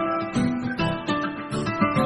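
Background music: acoustic guitar being plucked and strummed in a steady rhythm.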